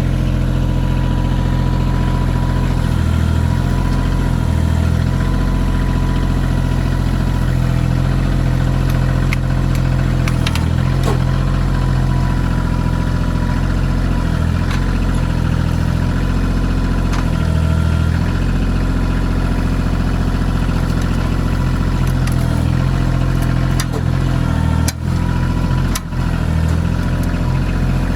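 Kioti CK2620 compact tractor's three-cylinder diesel engine running steadily while working, with a few short knocks near the middle and end.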